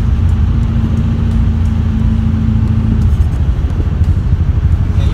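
Tuned 2007cc air-cooled VW Beetle flat-four with Weber 48 carburettors running under way, a steady low rumble heard from inside the cabin.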